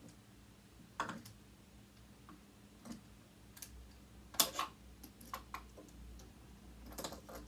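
A screwdriver and small metal parts of a sewing machine motor making irregular light clicks and taps as a screw is worked loose, about a dozen over several seconds, with the sharpest near the middle.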